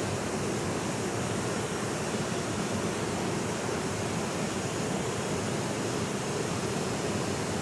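Waterfall rushing, a steady, even roar of falling water with no changes.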